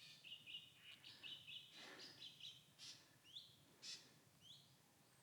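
Forest birds calling: a quick run of short, high chirps, then several short calls sweeping upward in pitch in the second half, with a few brief rustling noises.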